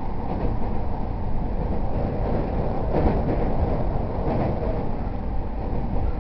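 E231-0 series electric commuter train running between stations: a steady low rumble of wheels on rail and running gear heard from inside the car, with a faint brief knock about halfway through.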